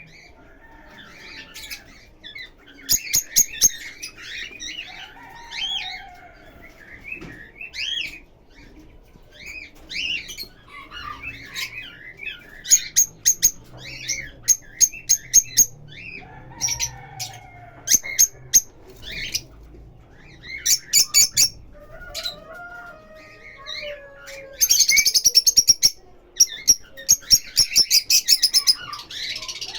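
Lovebirds chirping and chattering in short, shrill calls, with quick rapid-fire runs of chips. The chatter thickens into a dense burst toward the end.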